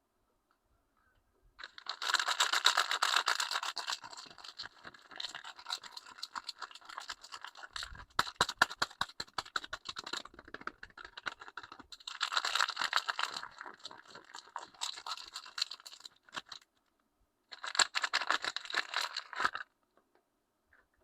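Soap packaging being unwrapped by hand: the wrapper crinkles, scratches and tears in several spells. In the middle comes a quick run of ticks and soft knocks. It stops shortly before the end.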